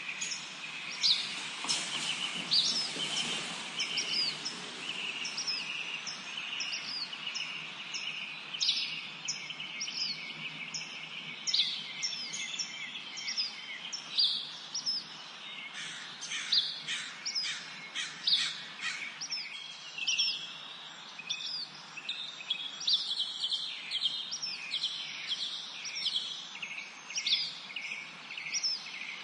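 Several songbirds singing and chirping together, with many short, high notes repeated throughout over a faint steady background hiss.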